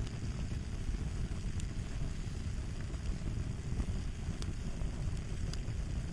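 Crackling fire ambience: a steady low rumble of burning with scattered sharp pops and snaps, more of them in the second half.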